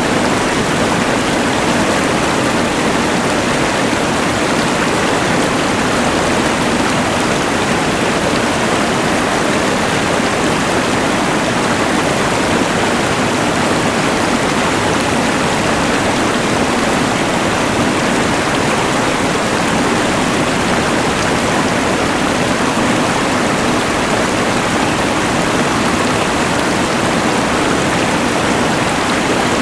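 Rushing mountain river blended with the steady noise of a LectroFan white noise machine, an even, unchanging rush of water and hiss.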